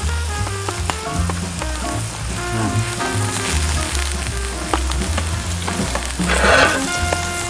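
Food sizzling and crackling as it cooks over a campfire, with background music playing throughout. A brief louder rush of sizzling comes about six seconds in.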